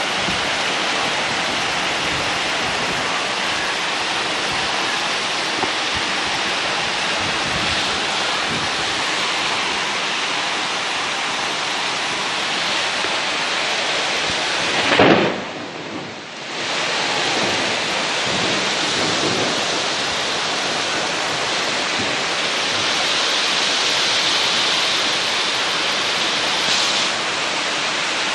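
Heavy rain falling steadily, with a brief louder burst about halfway through followed by a short dip.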